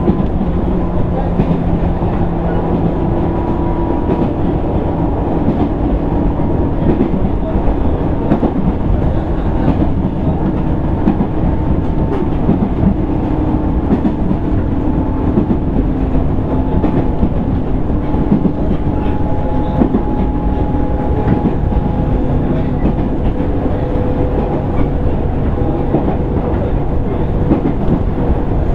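Inside a JR East 205 series 600-number electric train motor car running at speed: steady low rumble of wheels on rail with irregular clicks of rail joints, and a motor whine whose tones slowly fall in pitch.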